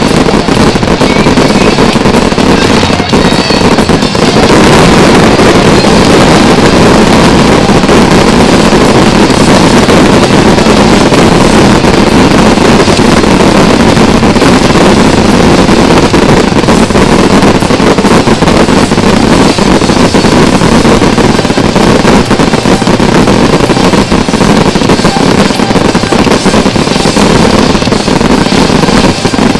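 Fireworks finale barrage: many shells and crackling effects going off at once, so dense that the explosions merge into one continuous, very loud noise with no gaps.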